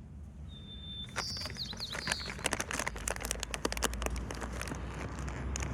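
Plastic packaging crinkling in rapid irregular clicks, starting about a second in. A few high thin bird chirps come in the first two seconds, over a low steady rumble.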